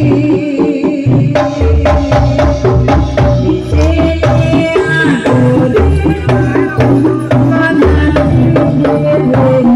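Live jaranan (kuda lumping) troupe music: an instrumental passage of drums and pitched instruments, with a deep drum beat repeating about every second and sharp percussion strokes over held melody notes.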